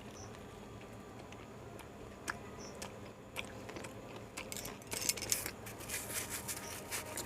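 A person chewing a mouthful of egg roll close to the microphone, with scattered sharp mouth clicks and a denser run of crackly clicking about five seconds in.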